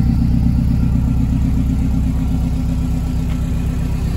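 Subaru WRX turbocharged flat-four boxer engine, mounted in the rear of a classic Mini, idling steadily.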